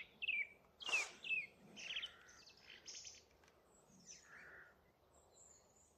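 Song thrush singing: a run of short, clear phrases with pauses between them, fading out in the last second or two.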